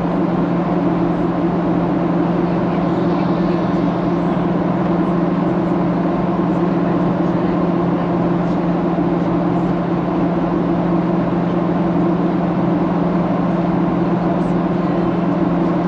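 Steady drone of a Boeing 737-800's engines and airflow, heard from inside the cabin, with a strong low hum.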